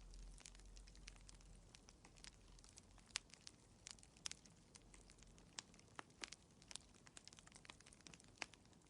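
Wood fire in a fireplace crackling quietly: irregular small pops and snaps, a few a second, over a faint hiss.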